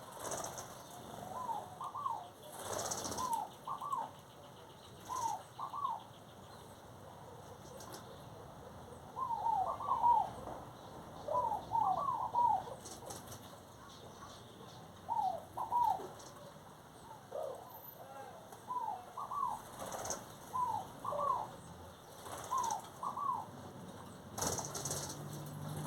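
A bird calling over and over, in short phrases of two or three quick curved notes every second or two. A few brief knocks or rustles come in between.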